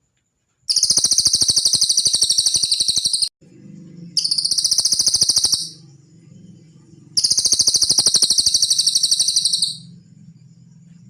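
Cililin songbird singing three rapid, high-pitched pulsed trills. The first and last run about two and a half seconds, the middle one about one and a half, with short gaps between and a faint low hum beneath.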